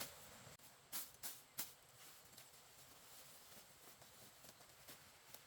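Four short, sharp clicks or knocks in the first two seconds over a faint, steady outdoor hiss.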